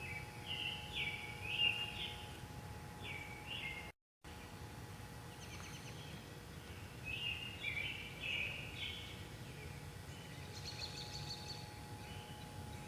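Corn LED light fixture giving off a steady, weird buzzing hum, with birds chirping over it in short bursts. The sound drops out briefly about four seconds in.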